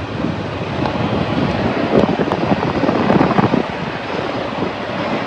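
Semi truck's diesel engine running at idle, heard through the open cab window, with wind noise on the microphone.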